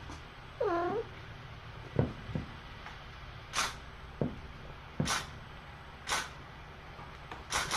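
A cat meows once about half a second in, followed by a few soft thuds and several short hissy noises.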